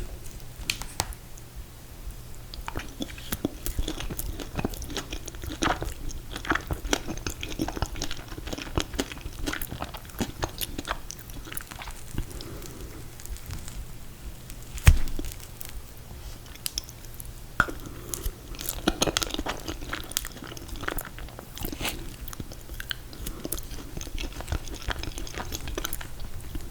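Close-miked chewing and biting of ice cream cake, with many small clicking mouth sounds and one sharp knock about halfway through.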